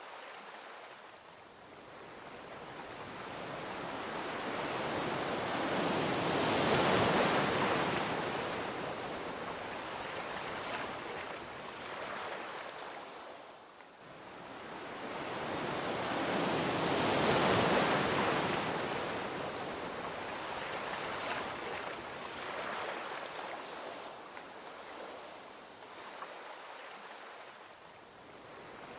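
Gentle ocean waves breaking and washing onto a beach. Two waves swell and break, about 7 and 17 seconds in, and each one fades into a long, hissing wash.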